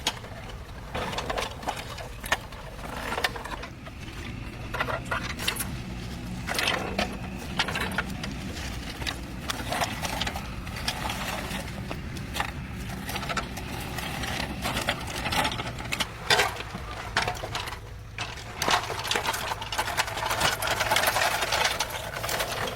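An engine running steadily, with repeated sharp metallic clicks and knocks over it throughout.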